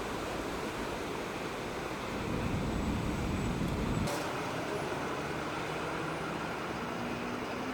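Road traffic noise: a vehicle's low rumble swells for a couple of seconds, then drops away suddenly about four seconds in, leaving steady traffic noise.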